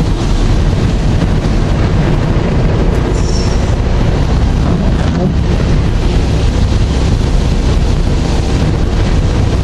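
Tropical storm wind buffeting the microphone: a loud, steady, rumbling roar of noise with no break.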